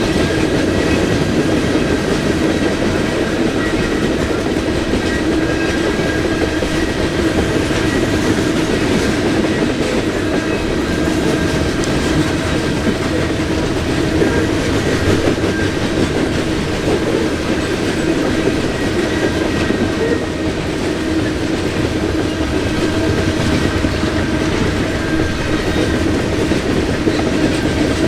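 Freight train cars rolling past on the rails, a steady loud rumble and wheel clatter with faint high steady ringing from the wheels.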